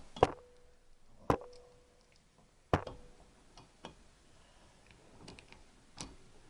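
Sharp metal knocks and clicks from working a valve spring compressor on a motorcycle cylinder head while taking out the valves. There are four distinct knocks, the first three followed by a short metallic ring, with lighter clicks between.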